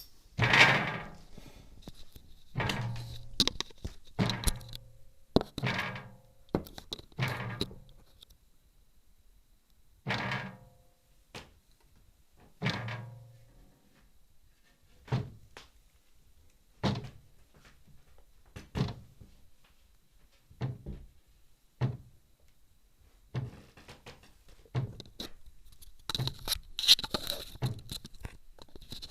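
Irregular knocking thuds on a window, about one every one to two seconds, many with a short low ringing tail. The knocker is unknown.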